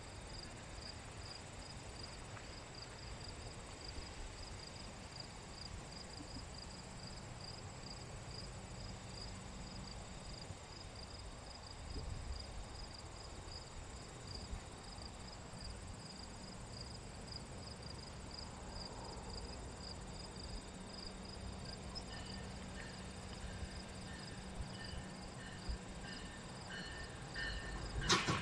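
Crickets chirping in a steady, even pulse, about three chirps a second, over a faint low background rumble.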